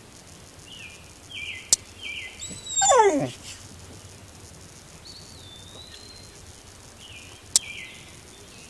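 A dog whining: a run of short, high, falling whimpers and, about three seconds in, one louder, longer whine sliding steeply down in pitch. There are two sharp clicks, one before the loud whine and one near the end.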